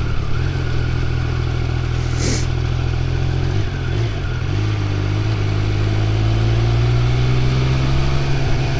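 Triumph Speed Triple 1200 RR's three-cylinder engine running at low revs in slow traffic, its pitch rising gently over the second half as the bike picks up speed. A brief hiss about two seconds in.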